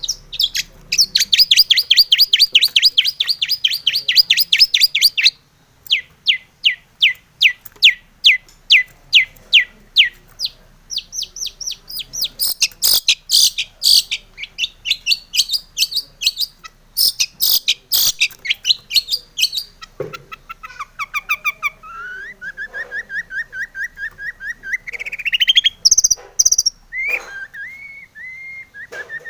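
Long-tailed shrike (cendet) singing a full 'isian' song of varied phrases that include imitations of other birds. It starts with a fast run of sharp repeated chirps, switches after a short break to slower repeated notes and harsher calls, and from about two-thirds through moves to twisting whistled phrases.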